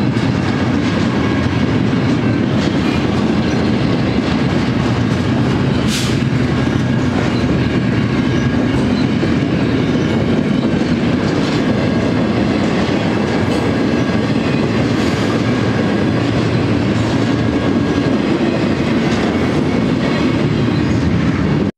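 Double-stack container train's well cars rolling past at steady speed, a dense rumble of wheels on rail with a faint steady high tone over it. One sharp tick about six seconds in.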